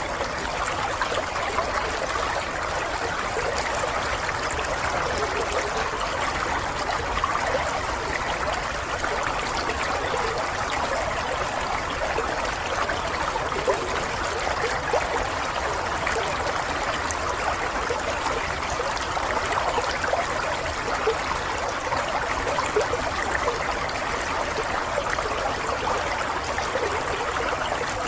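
Running water of a small stream or brook, a steady babbling trickle.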